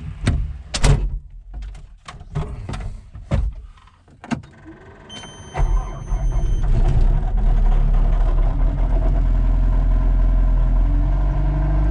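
Caterpillar 257 compact track loader's diesel engine starting on a cold morning: several knocks and clunks, a steady electronic warning tone for about a second and a half, then the engine catches about five and a half seconds in and settles into a steady idle that steps up slightly near the end.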